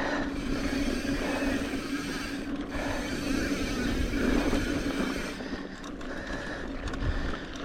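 Mountain bike's rear freehub buzzing steadily as the rider coasts, over the rush of tyres rolling on a dirt trail.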